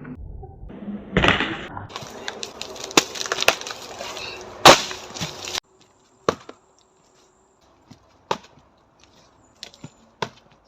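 Dry dead wood cracking and splintering in a dense run of snaps, with the loudest crack about four and a half seconds in, then an abrupt cutoff. After it come four separate sharp knocks of karate strikes against a dry tree trunk.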